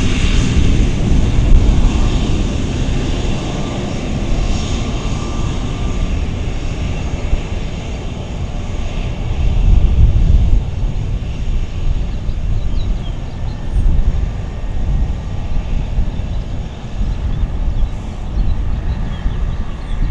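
Aircraft engine noise from a plane moving away: a steady rumble and rush, strongest at the start, then fading.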